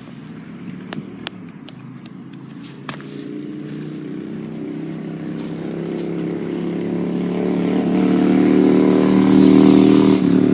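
A motor vehicle's engine running and growing steadily louder over several seconds, then dropping off sharply near the end, with a few light clicks early on.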